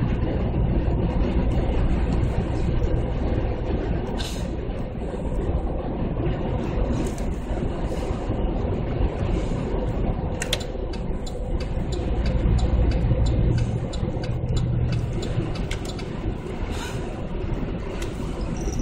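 2008 Chevy Tahoe V8 with an aftermarket Magnaflow muffler, exhaust running as a steady low rumble along with road noise. It gets louder near the start and again for a couple of seconds past the middle, and there are a few faint clicks.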